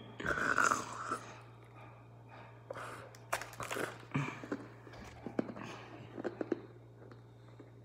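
A person bites into and chews a hard dog treat cookie. The chewing comes as scattered mouth clicks and crunches, loudest at the bite in the first second, over a faint steady hum.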